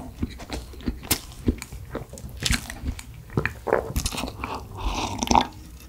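Close-miked eating sounds: wet chewing and mouth clicks. Near the end come drinking sips and swallows from a glass.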